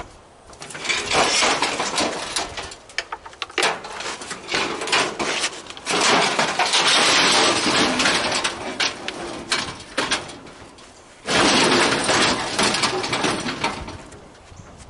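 Metal barbecue grill parts clattering, knocking and scraping as the grill is pulled apart by hand, with two longer stretches of steady scraping.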